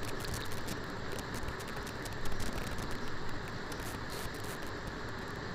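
Liver pieces sizzling and crackling in hot oil in a nonstick kadai, frying until the water they release dries off. About two seconds in, the sound briefly gets louder.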